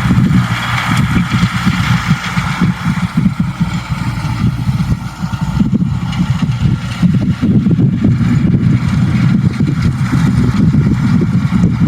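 Farm tractor's diesel engine running steadily, a constant low hum.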